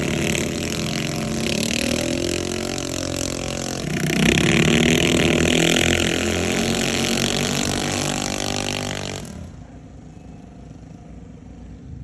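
Minibike engines running at high revs, the pitch rising and falling as the riders throttle on and off. The sound drops off sharply about nine seconds in.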